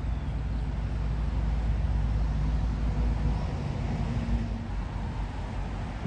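Wind buffeting the microphone outdoors during a storm: a steady, gusting low rumble with a noisy hiss above it.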